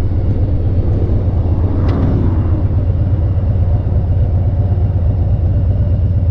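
A Harley-Davidson V-twin motorcycle running steadily at highway speed, its low engine rumble heavily mixed with wind rush. There is a brief swell of noise about two seconds in.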